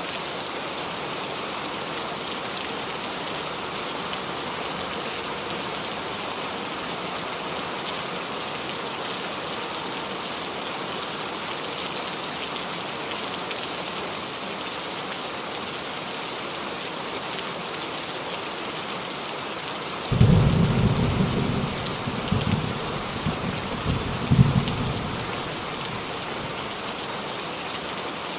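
Steady rain falling on a roof, with a roll of thunder breaking in about two-thirds of the way through, a low rumble with several peaks over about five seconds before the rain alone returns.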